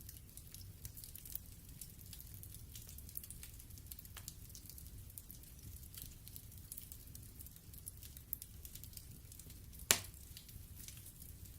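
Wood fire burning in a fireplace: a low steady rumble with a constant scatter of faint crackles and ticks, and one sharp louder pop near the end.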